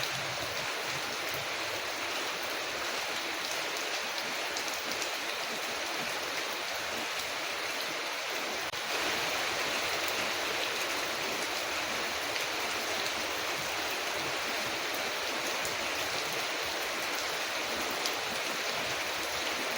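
Steady rain falling, a dense even hiss with faint scattered drop ticks, rising slightly in level about nine seconds in.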